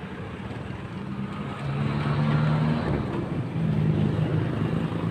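A motor vehicle engine running, growing louder about two seconds in, its pitch shifting up and down a few times.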